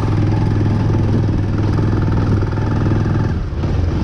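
Motorcycle engine running at a steady pitch while riding a rough off-road stretch; the engine note drops away briefly near the end and then picks up again.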